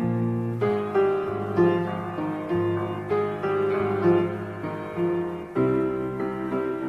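Slow piano ballad intro: piano chords struck about once a second over held bass notes, with no voice yet.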